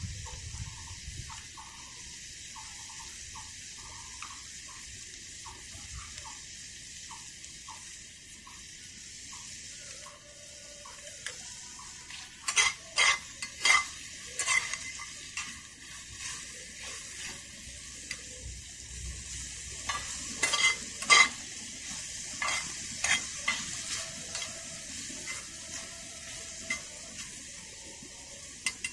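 Food frying in a pan with a steady sizzle, and a metal utensil stirring and scraping against the pan. It clatters in two bursts, about halfway through and again a little later.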